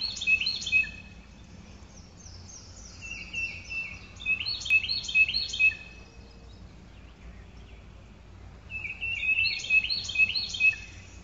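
A songbird singing three phrases of quick, repeated chirping notes: one at the very start, one about three seconds in and one about nine seconds in.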